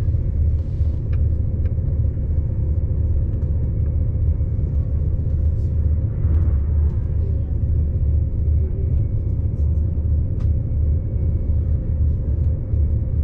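Steady low rumble of a high-speed passenger train running at speed, heard from inside the carriage, with a few faint clicks.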